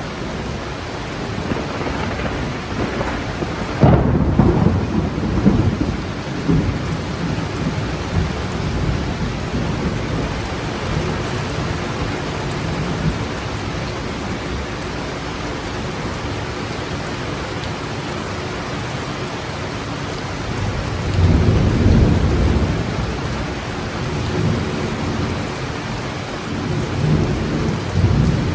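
Heavy rain falling steadily through a thunderstorm, with rolls of thunder rumbling in about four seconds in and again past the twenty-second mark, and a smaller rumble near the end.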